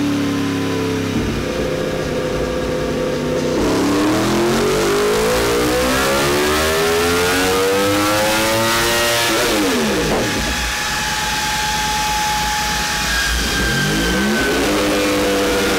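Yamaha R1M's crossplane inline-four on a dyno power run. The revs climb smoothly at full throttle for about five seconds, then the throttle is shut and the revs drop fast. Near the end the revs pick up briefly again.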